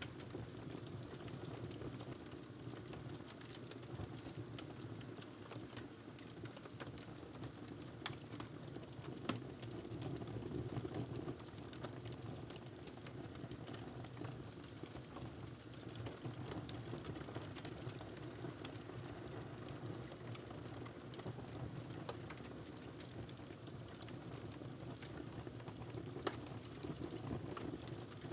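Wood fire crackling in a fireplace: a steady low rumble of flame with frequent small crackles. A few sharper pops stand out, two close together about a third of the way in and one near the end.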